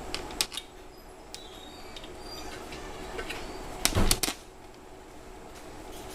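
A couple of light clicks, then a short cluster of louder knocks about four seconds in, over a steady hum.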